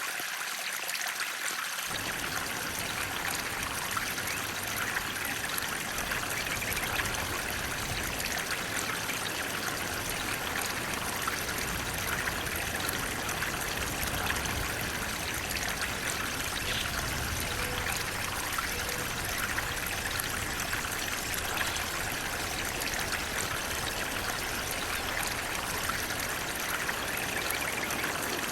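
Flowing water running steadily, an even continuous rush; a deeper low rush fills in about two seconds in.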